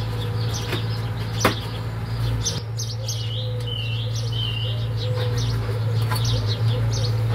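Small birds chirping in the background over a steady low hum, with one sharp click about a second and a half in.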